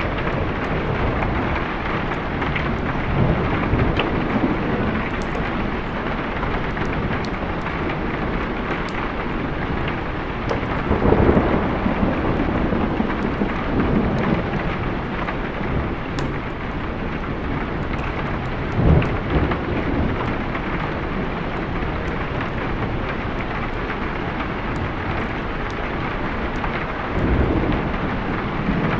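Steady rain falling, with rolling thunder: a loud rumble about eleven seconds in, and shorter rumbles near the twenty-second mark and near the end.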